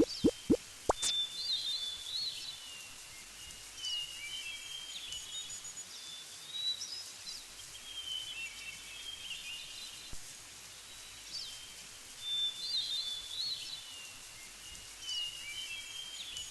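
A bird sings a short chirping phrase that repeats every few seconds over a steady outdoor hiss. A few quick rising plops sound in the first second.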